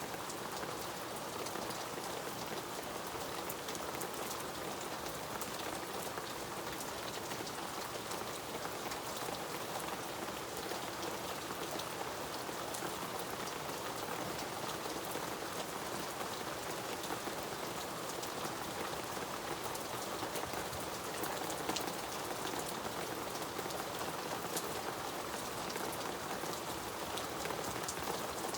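Steady rain falling, a constant patter of drops striking a surface, with many small sharp drop ticks throughout.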